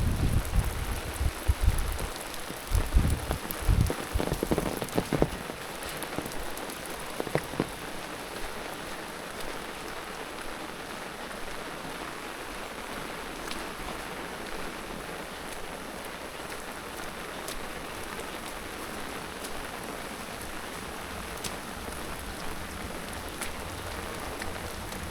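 Steady rain falling, an even hiss with scattered drop ticks. A few low thumps and rumbles come in the first five seconds.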